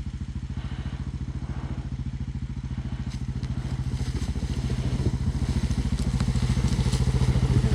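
Single-cylinder four-stroke Honda ATV engine idling with an even, rapid putter, growing gradually louder. Light clicks and clatter come in over the second half.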